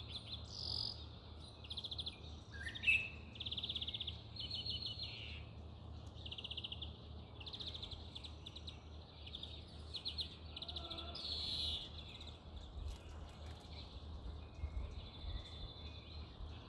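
Birds chirping in rapid high-pitched trills, repeated in short bouts about a second long, with one louder rising chirp about three seconds in.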